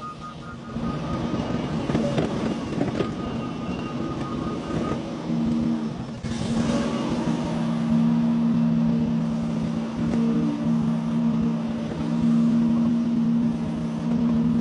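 Excavator engine running, with knocks and clanks in the first few seconds and a rush of noise about six seconds in. After that a steady drone sets in, growing louder about halfway through.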